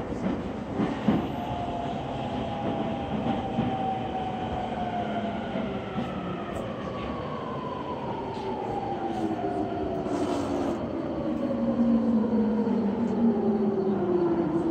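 Another electric train's traction motors whining down in pitch as it brakes, with rail and wheel rumble. The sound grows louder in the last few seconds, heard from inside a stopped commuter car.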